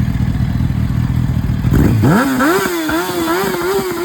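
Yamaha FZ1000 inline-four motorcycle engine running through its exhaust. It rumbles low for about two seconds, then is revved: the pitch climbs quickly and holds high with a slight wavering.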